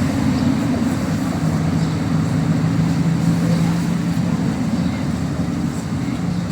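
City street traffic: a low, steady vehicle engine rumble, with a held engine hum from about a second and a half in to about four and a half seconds.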